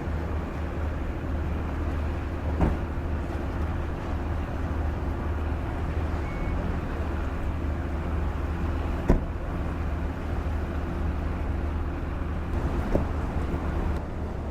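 Engine running with a steady low hum over a noisy background, broken by three brief knocks.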